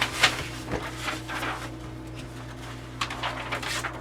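Handling noises: soft rustles and a few light knocks of objects being moved about, over a steady low hum.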